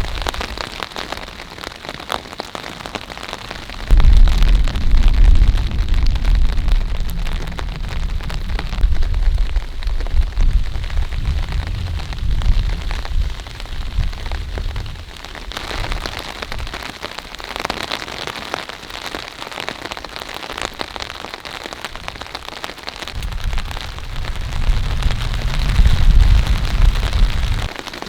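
Heavy rain falling steadily, with two long stretches of deep low rumble over it: one that starts suddenly about four seconds in and dies away after about ten seconds, and another near the end.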